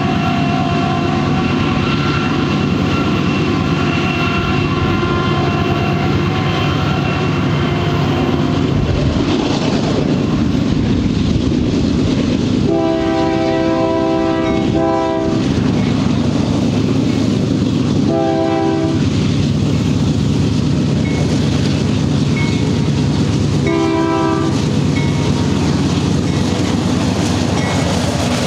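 Union Pacific diesel freight locomotives approaching with a steady engine rumble and rail noise. The multi-note air horn sounds one long blast about halfway through, then two short blasts a few seconds apart.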